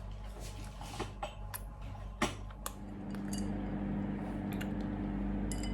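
A few light clicks and clinks of small objects being handled. A steady low hum starts about three seconds in.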